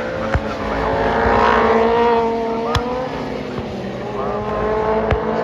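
Several superbike engines at racing speed, their pitch rising and falling as the bikes pass and shift gear, growing louder about a second and a half in. A few short sharp cracks are heard among them.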